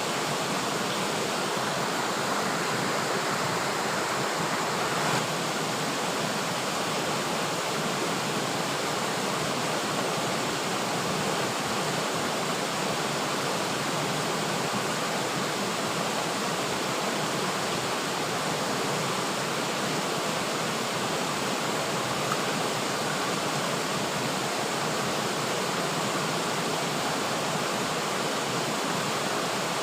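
River water flowing steadily over rocks, an even rushing with no pauses.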